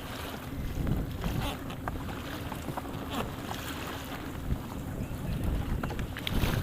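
Wind buffeting the microphone and water slapping against an inflatable boat's hull, with a low rumble and scattered small knocks and splashes.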